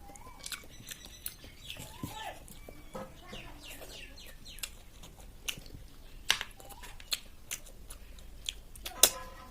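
Eating snail curry close to the microphone: wet chewing, sucking and lip smacks, with a run of sharp clicks and smacks, the loudest near the end.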